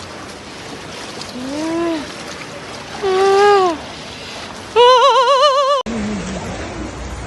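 Three drawn-out vocal calls over a steady rush of water, each higher and louder than the last. The third wavers in pitch and cuts off abruptly.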